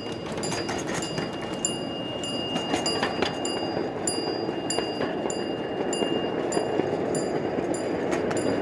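Miniature ride-on live-steam train running along its track: a steady rolling rumble with regular clicks about every half second as the wheels pass over rail joints, and a thin high tone that comes and goes.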